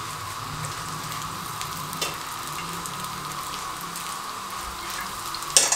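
Chicken seekh kebabs frying in oil on a flat pan, a steady sizzle. A single sharp click sounds near the end.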